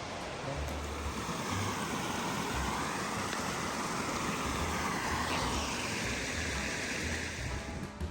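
Steady rushing noise with irregular low rumbles, typical of wind blowing across the microphone outdoors.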